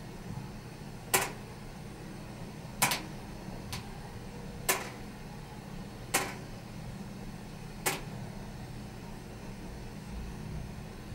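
Steady low hum inside a car, with a series of sharp clicks, about one every second and a half.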